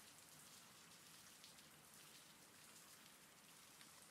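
Faint steady rain: an even hiss of falling rain with scattered individual drops standing out.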